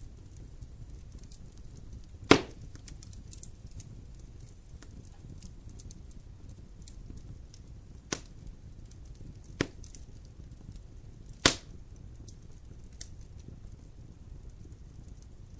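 Wood fire crackling in a fireplace over a low steady rumble, with faint small crackles and four loud sharp pops: the loudest about two seconds in, the others between eight and twelve seconds in.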